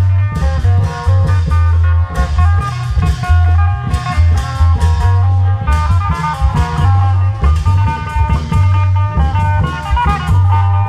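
Isan klong yao procession band playing: a steady drum beat under a heavy repeating bass line, with a plucked lead melody on top.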